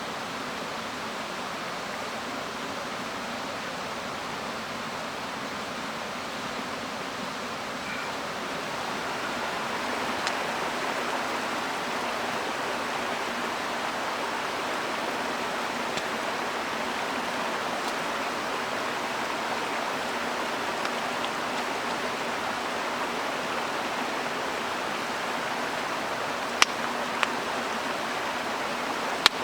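Mountain headwater stream rushing steadily, getting a little louder about ten seconds in. A few sharp clicks sound near the end.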